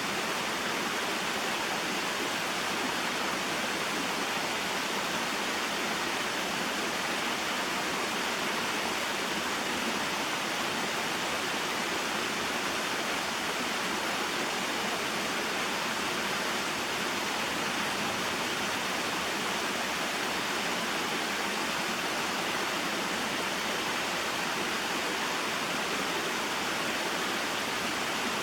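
Small mountain waterfall and stream: water falling and rushing over rocks in a steady, unbroken flow.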